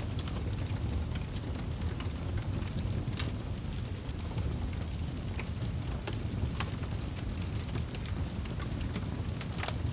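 Wood fire crackling with irregular sharp pops over a steady low rumble, one louder pop near the end.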